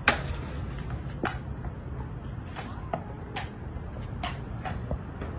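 A horse's hooves clopping on a hard floor in irregular steps, about one or two a second, over a low steady hum.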